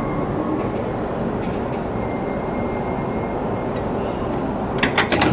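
Steady running noise of an electric commuter train standing at the platform with its doors open. A few sharp clicks come near the end.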